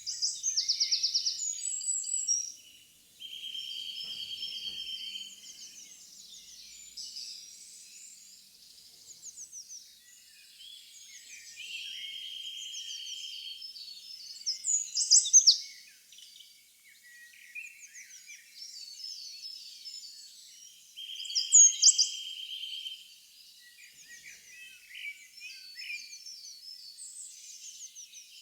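Birdsong: many small birds chirping and calling together, with a buzzy trill about two seconds long coming three times and two louder, sharp falling calls.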